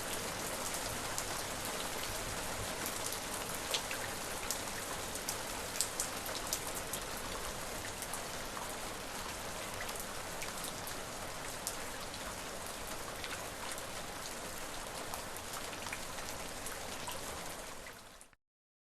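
Steady rain falling, with many distinct drops pattering on a surface. It fades quickly and cuts to silence shortly before the end.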